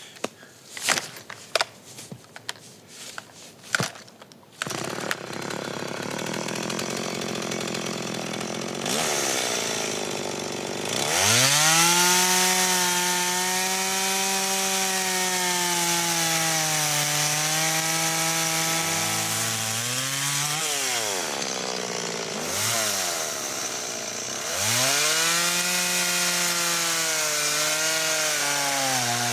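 Chainsaw engine running at high revs, its pitch sagging and recovering several times near the end as it works under load, after a few sharp knocks in the first seconds.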